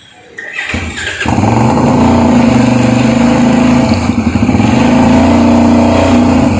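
Benelli 752S parallel-twin engine revving through its stock exhaust: it drops off at the start, takes a couple of quick throttle blips, then is held at steady revs for about five seconds before falling away at the end.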